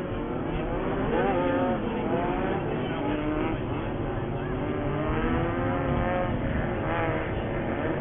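Several off-road race buggy engines running at once, their pitch repeatedly rising and falling as they accelerate and back off.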